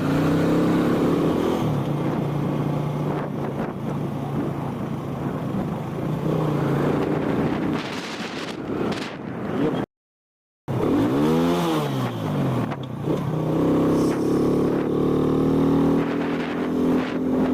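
Road vehicle engines running steadily, cut off by a brief total silence about ten seconds in. After the cut an engine's pitch rises and falls back over a second or so, then settles into a steady run.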